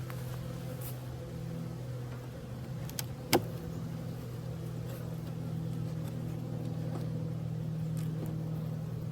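Honeybees buzzing in a steady drone around an opened hive. A single sharp click comes a little over three seconds in.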